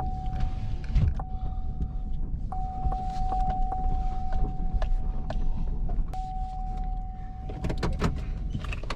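Fishing reel whirring steadily as a lure is retrieved, stopping briefly a few times, with scattered clicks. Wind rumbles on the microphone underneath.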